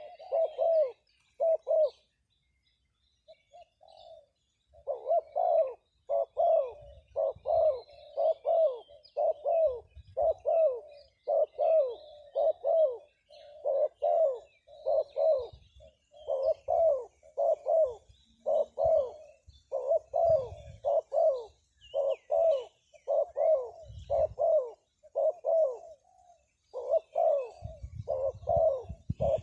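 A forest bird calling a long series of short, hooting notes, about two a second, with a pause of about three seconds soon after the start. Faint chirps of other birds sound behind it.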